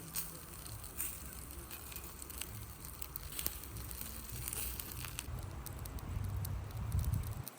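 Fire crackling with scattered sharp pops, over a steady low rumble.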